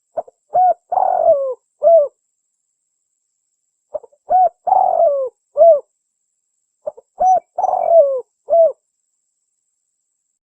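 Spotted dove cooing: three matching phrases about three and a half seconds apart. Each phrase is a short note, two quick coos, a longer coo that falls in pitch, and a final coo.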